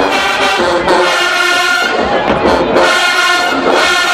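Marching band brass playing loud, long held chords that break off and come back in a few times.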